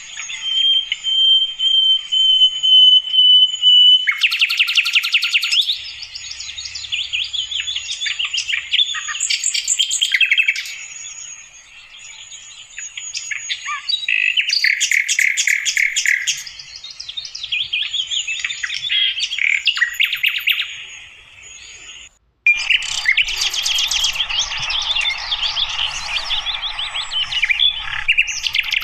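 Sikatan londo flycatcher singing continuously: a long thin whistle, then fast chattering trills and varied chirps. The song breaks off briefly about three-quarters of the way through and resumes busier.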